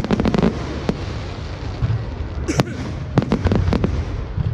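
Fireworks display: rapid volleys of sharp bangs and crackles, in clusters near the start and again from about three seconds in, over a continuous low rumble of further bursts.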